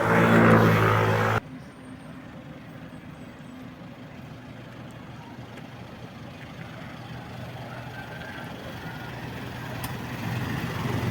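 An engine running with a steady low hum that cuts off abruptly about a second and a half in, leaving a quieter steady background noise. A similar engine hum builds again near the end.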